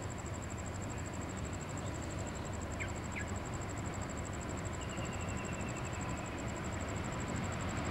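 Distant freight train approaching: a low steady rumble that grows slightly louder toward the end.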